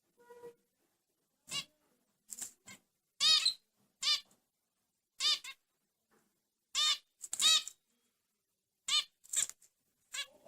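A bulbul giving a series of short, arched, squeaky calls, about ten of them, irregularly spaced roughly a second apart.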